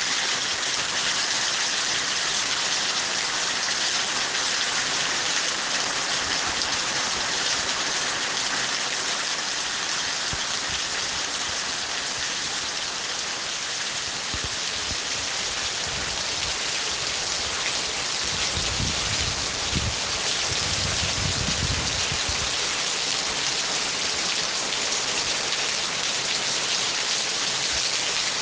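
Steady heavy rain, a dense even hiss of drops falling on surfaces. A low rumble rises beneath it about two-thirds of the way through and fades after a few seconds.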